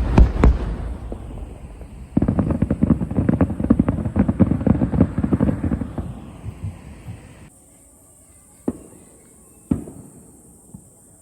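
Fireworks going off: a few heavy booms at the start, then a dense run of rapid crackling pops for about four seconds that fades away, and two single bangs near the end.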